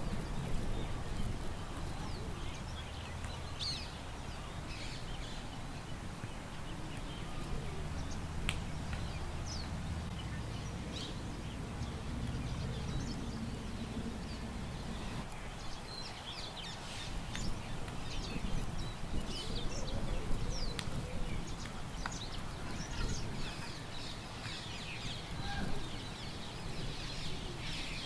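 Park ambience: birds chirping and calling in many short, scattered notes, busier in the second half, over a low steady rumble of wind.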